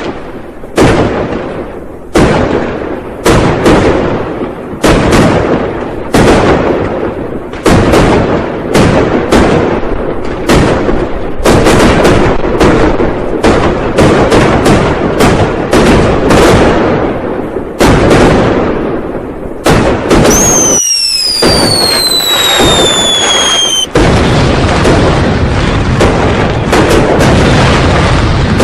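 Firecrackers and fireworks going off in loud, irregular bangs, often several a second. About twenty seconds in, a whistle falls steadily in pitch for a few seconds, and after that the bangs merge into one continuous crackle.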